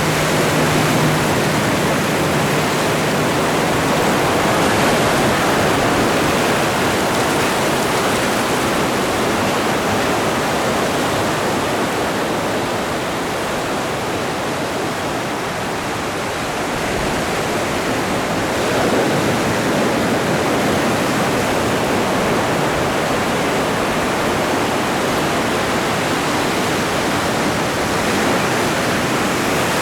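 Atlantic Ocean waves washing onto the shore in a continuous loud rush. It swells and eases slowly, dipping about halfway through and surging up again a few seconds later.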